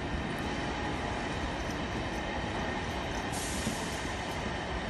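Train running on the tracks at the station: a steady rumble of wheels on rail, with a short hiss a little after three seconds in.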